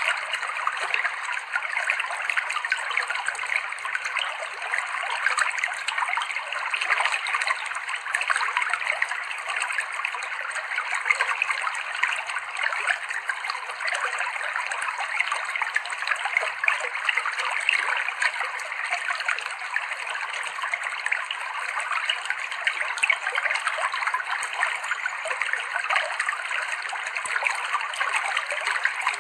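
River water running over rocks: a steady rush with many small trickles and splashes.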